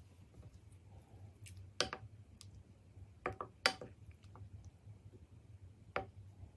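Faint clicks and light knocks of kitchenware being handled, about five in all, a couple of them with a short ring, over a steady low hum.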